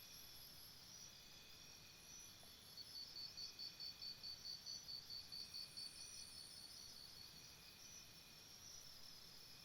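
Faint chorus of insects, cricket-like, chirping in a jungle soundscape. High-pitched chirps pulse evenly, about three a second through the middle, over fainter, higher trills.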